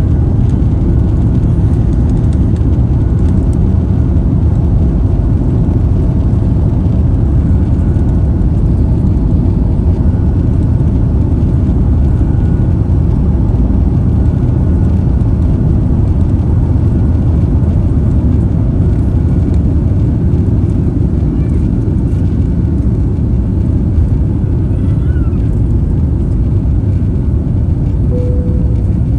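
Jet airliner engines running with a steady low roar, with a faint steady whine above it.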